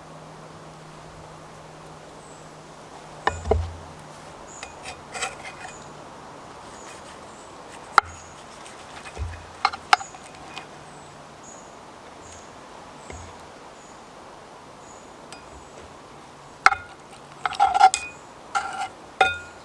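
Metal clinks and knocks of utensils against a cast-iron Dutch oven: a few scattered knocks, then a quick run of clinks near the end.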